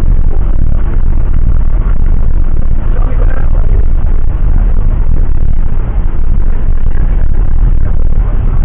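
Loud, steady rumble of a jet airliner's engines and airflow as heard from inside the cabin.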